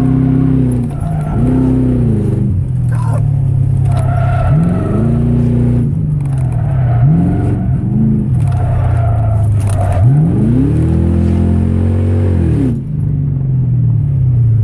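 Ford Crown Victoria Police Interceptor's 4.6-litre V8 running through an open exhaust, loud, revving up and falling back about five times as it is driven hard through an autocross course.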